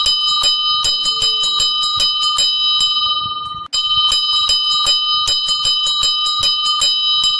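An alarm bell ringing continuously with rapid striking, signalling that the countdown timer's time is up. It breaks off for an instant about halfway through and starts again, as a looped ring.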